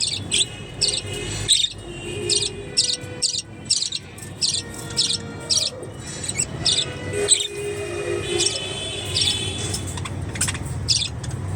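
Budgerigar chirping in short, sharp, repeated chirps, about two a second.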